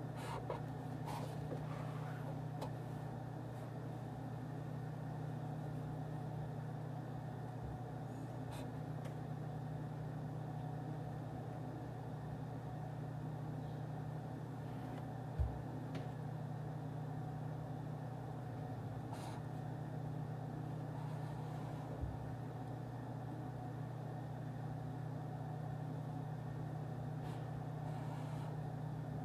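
Office-style white-noise ambience: a steady low hum of room and ventilation noise, with a few faint scattered clicks and one soft thump about halfway through.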